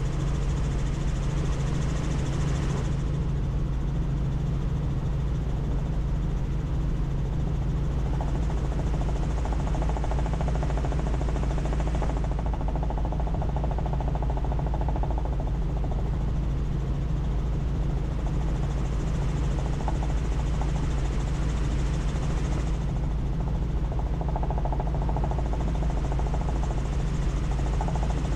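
Helicopter heard from inside the cabin in flight: the rotor and engine drone steadily with a deep, even hum. Over it a high hiss drops away and comes back a couple of times.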